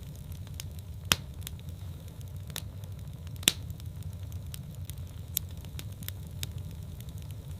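Wood fire crackling in a fireplace: a steady low rumble of the flames with sharp pops and snaps at irregular intervals, the loudest about three and a half seconds in.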